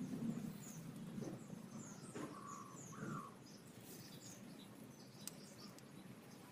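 A small bird chirping over and over, short high chirps about two to three a second. Two lower, rising calls come in the middle, and a low rumble fades out about three seconds in.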